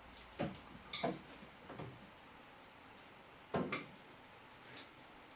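A few irregular knocks and clicks, about five in all, the loudest a little over halfway through.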